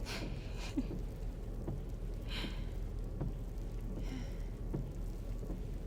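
Car-interior driving ambience: a steady low engine and road rumble under a rain-like storm hiss. Soft swishes come about every two seconds.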